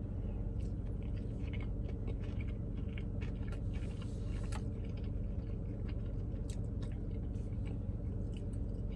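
A person biting into a piece of California sushi roll and chewing it, with many small, irregular wet clicks and crunches from the mouth. A steady low hum runs underneath.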